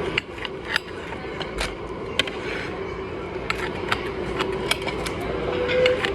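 Irregular sharp clicks and knocks, a dozen or so spread unevenly, over a steady hum and background noise.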